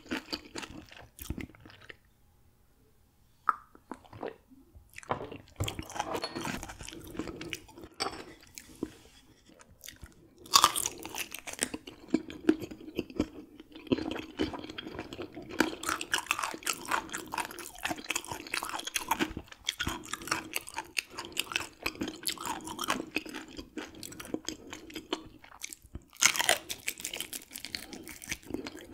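Close-miked chewing of raw gizzard shad eaten bone-in, the small bones crunching between the teeth. There is a brief pause early on, and louder crunches come about ten seconds in and again near the end.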